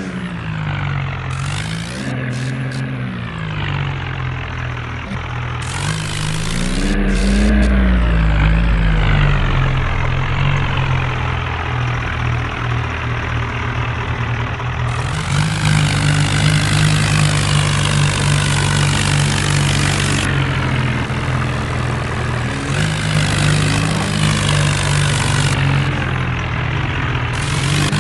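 Tractor engine running, its pitch rising and falling a few times, then running steadier and louder from about halfway through.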